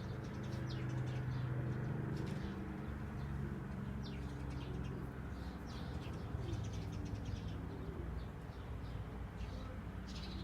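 Pigeons cooing, a low rolling sound with a few rise-and-fall phrases, with faint scattered high clicks.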